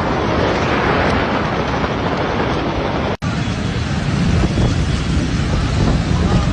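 Heavy rain pouring down, with wind buffeting the microphone. The sound drops out for an instant about three seconds in, and after that the low wind rumble is stronger.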